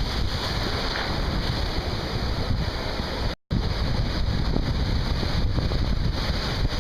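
Wind buffeting the microphone over open sea with waves, a steady rumbling rush, cut by a brief moment of total silence about halfway through.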